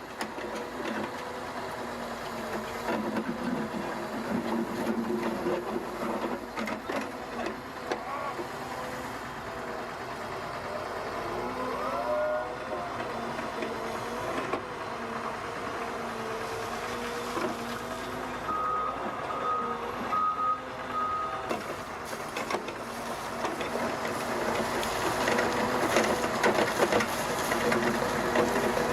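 Machinery running steadily with several held humming tones, interrupted about two-thirds of the way through by four short, evenly spaced beeps; it grows louder near the end.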